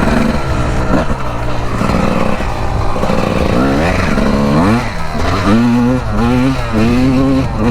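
Two-stroke Honda 250 dirt bike engine running under way, its pitch climbing from about halfway through and then rising and falling several times as the throttle is worked.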